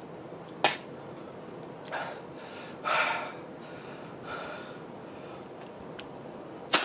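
A man gasping and breathing out hard a few times, the longest breath about three seconds in, after swallowing a thick drink. Two sharp clicks, one under a second in and one at the very end.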